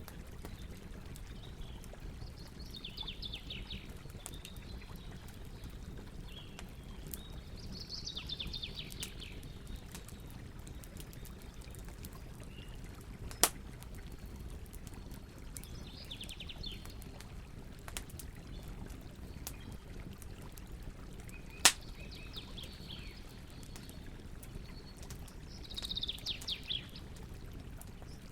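Campfire burning with a steady crackle, with two sharp loud pops, the first about halfway through and the second about three-quarters of the way in. Small birds chirp in short rapid trills every few seconds, the loudest near the end.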